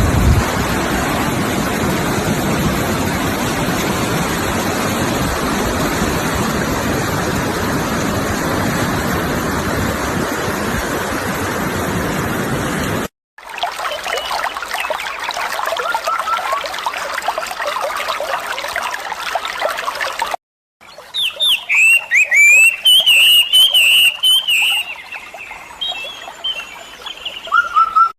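Steady rushing water for the first half, then cut abruptly to a trickling stream with a few faint bird calls, and from about two-thirds of the way in, small birds chirping loudly in quick repeated phrases.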